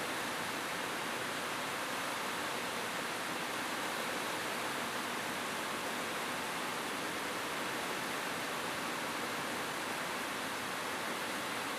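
Rain falling steadily on a roof: an even, unbroken hiss with no single drops or thunder standing out.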